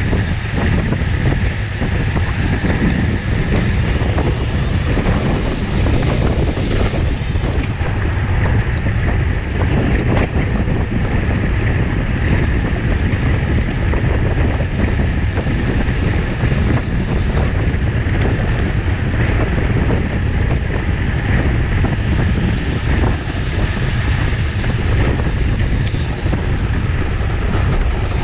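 Steady wind rushing over the microphone of a camera carried on a road bicycle at racing speed, heaviest in the low end, with a faint steady whine underneath.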